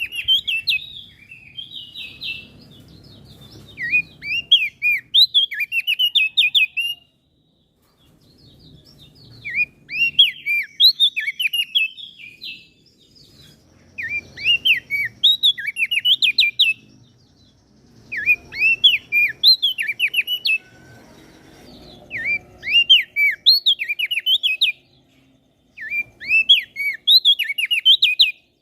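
Small songbird singing in repeated bouts of quick, sharp up-and-down chirps, each bout about three seconds long, with short pauses between them.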